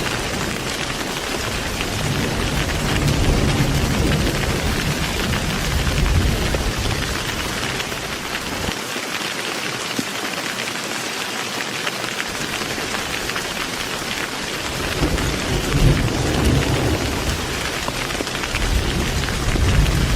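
Heavy rain falling steadily, with low rolls of thunder rumbling twice, near the start and again towards the end.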